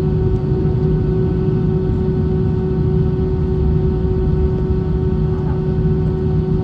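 Airbus A320 cabin noise: a steady engine drone with a constant hum and a low rush of air, unchanging throughout.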